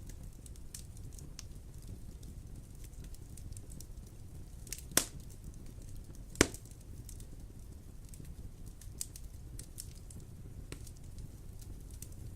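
Wood fire burning in a fireplace: a steady low rumble of the flames with scattered crackles and two loud sharp pops about five and six and a half seconds in.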